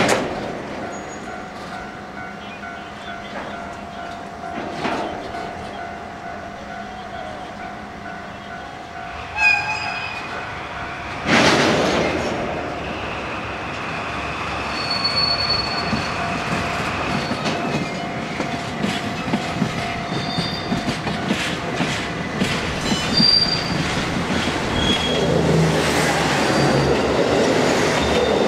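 Freight train of oil tank wagons rolling slowly, with high wheel squeals and clicking over rail joints, and a loud sudden blast about eleven seconds in. Near the end a passenger train passes close by with a rising rumble of engine and wheels.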